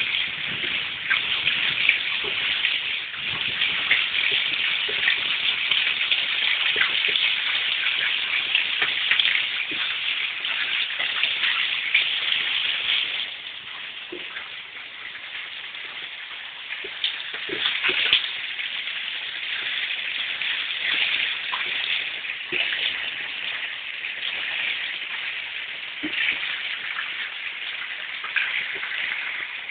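Heavy rain falling on standing water over a paved yard: a dense, steady hiss with countless small drop splashes. It turns quieter for a few seconds just under halfway through, then picks up again.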